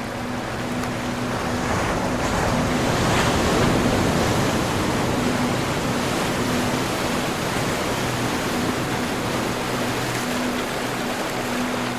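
Ocean surf: a wave swells to a peak about three to four seconds in, then eases into a steady wash. A faint low humming tone comes and goes underneath.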